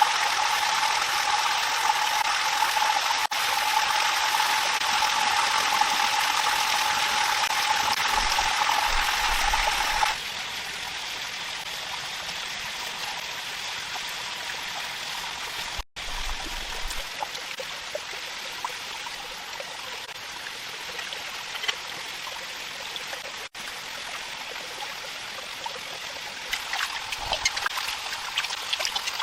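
Steady rush of a flowing stream. For the first ten seconds a steady pitched hum sits over it, then it cuts suddenly to a quieter stretch of water noise.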